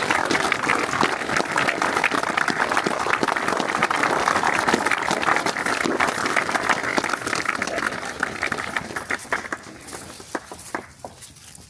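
A crowd applauding, loud and dense for most of the time, then thinning out and dying away over the last few seconds.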